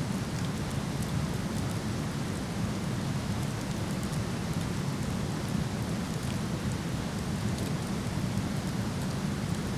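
Steady, unbroken rushing roar of a waterfall, heaviest in the low range, with a few faint crackles from a wood fire.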